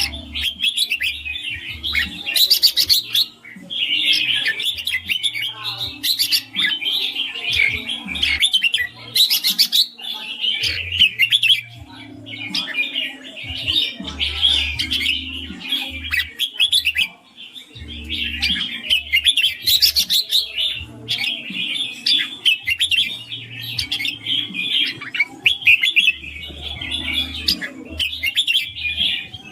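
Red-whiskered bulbul singing: a near-continuous run of quick, clear chirping phrases with only brief breaks.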